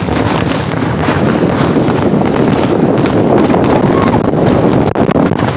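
A loud, continuous crackle of many fireworks going off at once, dense and unbroken, fading off at the very end.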